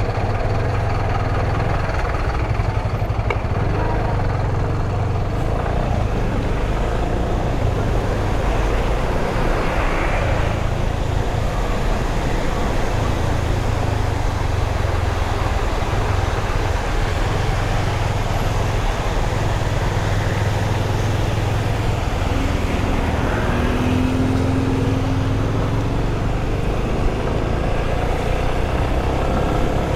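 Steady riding noise from a Yamaha FZ25 motorcycle under way in traffic: its single-cylinder engine running with a deep, constant rumble. A short tone sounds briefly a little past twenty seconds.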